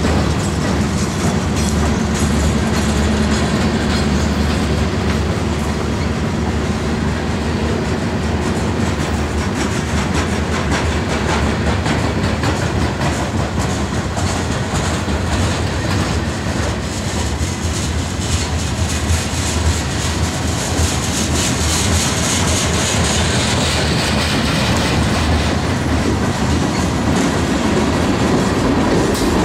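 Freight train of covered hoppers and tank cars rolling past slowly, its wheels clicking steadily over the rail joints.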